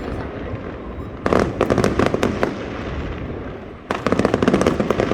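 Fireworks going off in rapid crackling volleys: a dense cluster of sharp crackles about a second in and another near the end, over a continuous low rumble.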